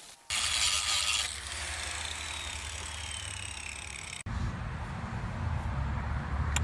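A grinder grinds rusty steel of an axle spring mount for about a second, then its disc whines down, the whine slowly falling in pitch. After an abrupt break a steady low hum continues.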